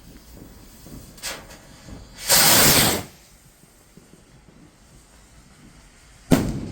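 Firework rocket launching with a short, loud hiss about two seconds in, then a single sharp bang near the end that dies away.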